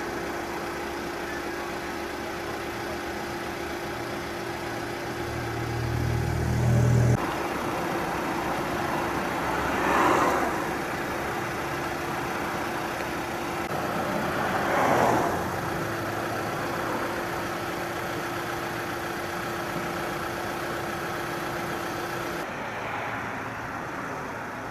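Road traffic over a steady engine hum. A low engine rumble grows louder and cuts off suddenly about seven seconds in, then two vehicles pass by, about ten and fifteen seconds in.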